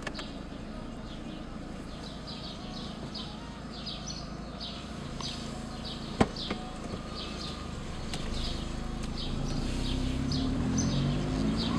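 Small birds chirping outside the car, a quick irregular run of short downward chirps, over the Volkswagen's engine running inside the cabin. There is a single sharp click about six seconds in, and the engine note rises near the end as the car pulls away.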